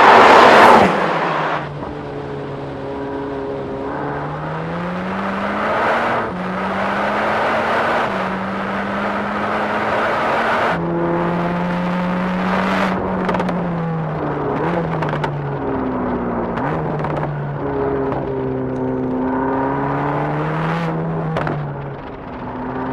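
Mercedes-AMG GT Black Series V8 running on track: loud close by for about the first second, then its engine note climbing and dropping again and again as it revs through the gears, with a few sharp cracks.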